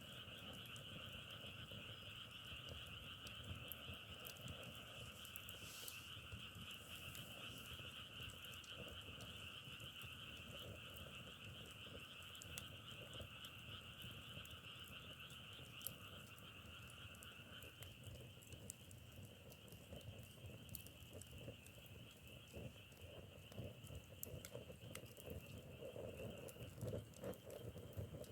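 Frog chorus, many frogs calling together in a dense, steady trill. A lower-pitched group stops about two-thirds of the way through, leaving the higher chorus.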